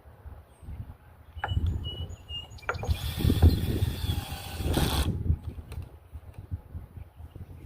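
Tool work on wood: a few sharp knocks, then a harsh mechanical whir-and-rasp lasting about two seconds, loudest just before it stops. Birds chirp faintly in the background.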